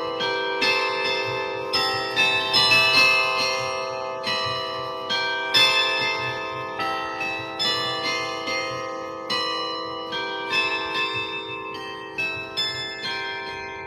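Carillon playing a slow melody: struck bell notes ring on and overlap, with the notes growing sparser and the sound dying away toward the end.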